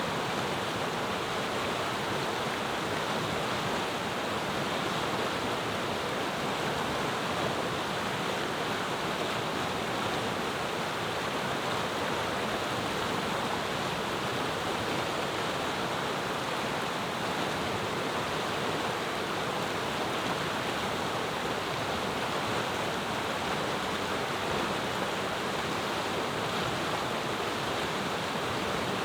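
Clear mountain river flowing: a steady, even rush of water with no breaks.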